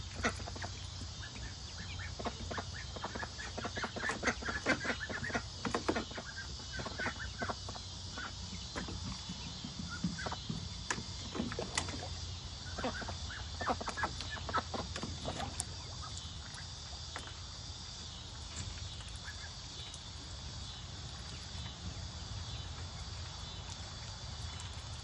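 A small flock of young chickens clucking and calling in short notes, busiest in the first two-thirds and thinning out toward the end, over a steady low hum.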